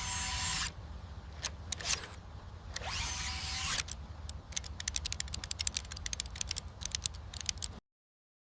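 Mechanical transforming sound effect: two short whirring bursts, then a fast run of sharp clicks and ratchet-like ticks over a low hum, cutting off suddenly near the end.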